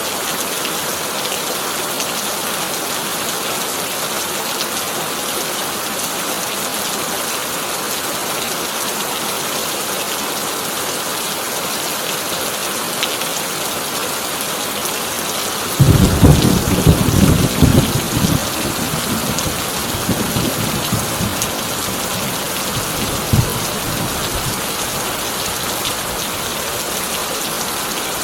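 Heavy rain drumming steadily on a corrugated tin roof. About halfway through, a sudden clap of thunder breaks in and rumbles for several seconds, dying away with one last crack a few seconds later.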